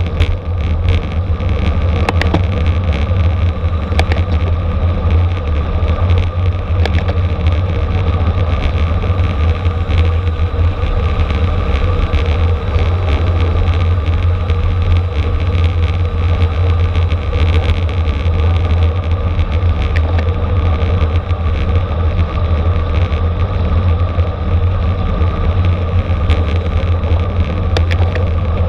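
Steady, loud wind rumble on the microphone of a camera riding along in a bicycle race, mixed with road and tyre noise, with scattered small clicks.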